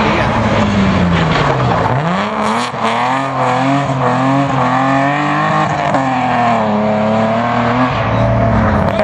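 A small hatchback's engine driven hard through a tyre slalom: the revs drop, climb sharply about two seconds in, then rise and fall again and again as the car weaves between the tyres.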